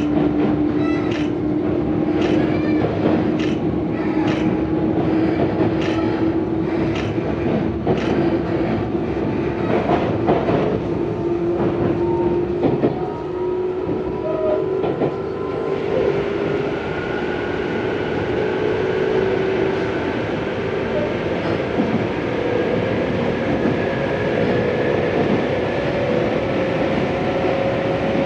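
Tobu 634-series electric train running, heard from inside the car. For the first several seconds the wheels click over rail joints about once a second, while a drive whine climbs slowly and steadily in pitch as the train gathers speed.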